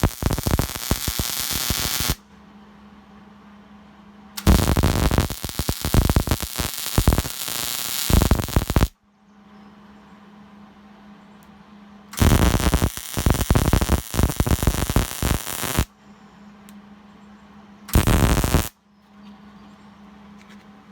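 Arc welding, crackling in four bursts: one ending about two seconds in, then two of about four seconds each, and a short one near the end. A steady low hum fills the gaps between welds.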